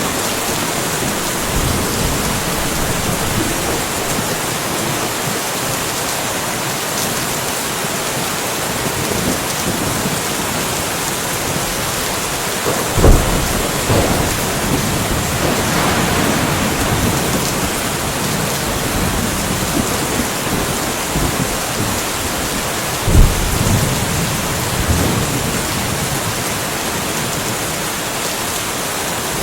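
Steady rain falling, with thunder cracking twice, about halfway through and again near 23 seconds in, each crack followed by a short low rumble.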